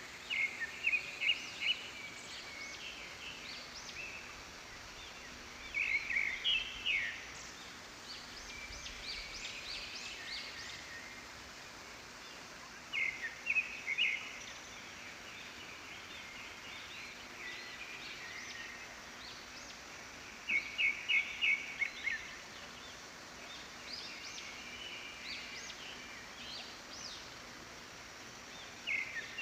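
Wild birds calling in forest. One call, a short burst of quick, high, repeated notes, comes back about every seven seconds, with fainter chirps in between over a steady hiss.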